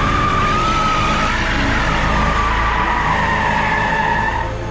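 Fire truck siren wailing, its tones wavering and one sliding lower about halfway through, over a low vehicle engine rumble.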